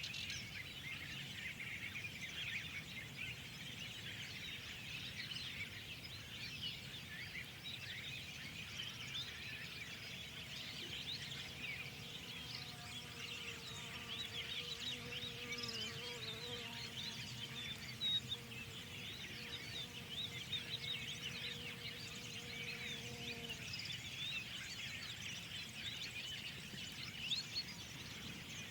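Many small birds chirping and twittering together in a dense spring chorus. From about twelve seconds in until about twenty-three seconds, a faint steady low hum runs beneath them.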